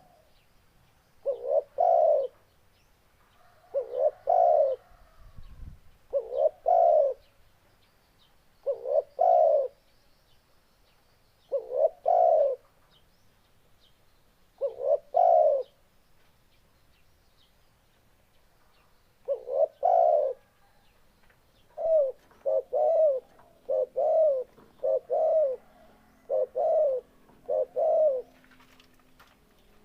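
Spotted dove cooing: short phrases of two or three notes repeated about every three seconds, then, after a pause, a quicker series of single coos near the end.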